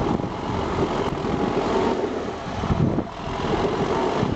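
UMZ-6L tractor engine running steadily and loud.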